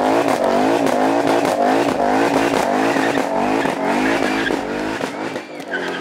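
Supercar engine running hard, its pitch rising and falling about twice a second, easing off near the end.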